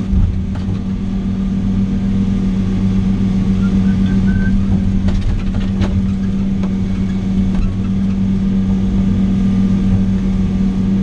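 Log truck's diesel engine idling steadily, with a few faint knocks about five to six seconds in.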